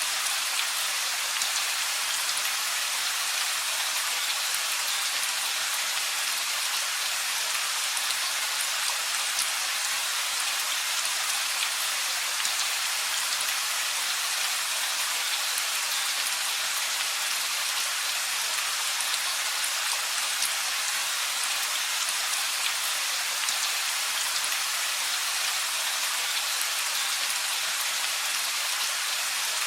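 Steady rain falling: an even hiss of many drops with fine scattered ticks, no thunder.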